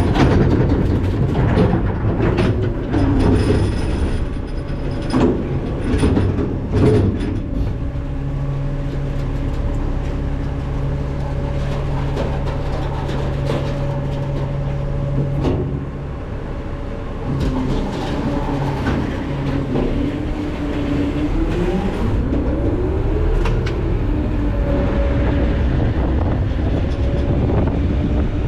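McNeilus ZR rear-loader garbage truck hopper: trash dropping in with a run of clatters and bangs for the first several seconds, then the packer hydraulics and engine running with a steady drone, its pitch rising and falling after about twenty seconds.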